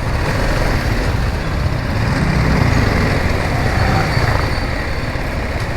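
Motorcycle engine running steadily while riding in city traffic, with road and wind noise on the camera's microphone.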